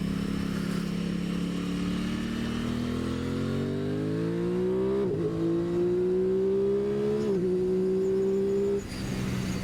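Aprilia Tuono 660 parallel-twin engine pulling up a steep climb: the revs rise steadily, dip with a quick upshift about halfway through and again a couple of seconds later, then the throttle closes near the end.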